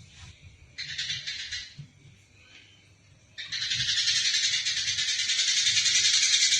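Eurasian tree sparrows chattering in rapid, dense strings of chirps, the excited chatter of sparrows fighting. A short burst comes about a second in, then loud continuous chattering starts about three and a half seconds in.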